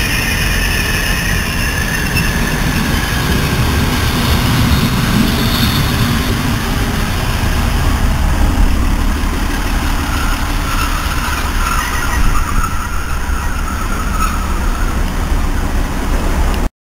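Regional passenger train coming into the platform and running close past, a steady loud rumble of wheels and running gear, with a faint high squeal in the second half as it slows to stop.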